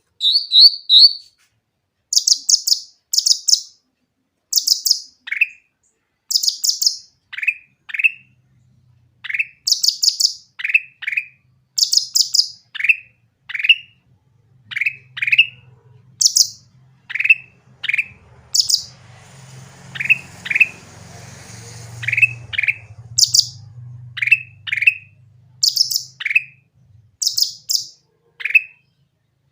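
A cucak ranting songbird singing continuously and loudly. Quick stuttering groups of very high notes alternate with short down-slurred whistles, about two phrases a second. A faint low hum runs underneath through the middle.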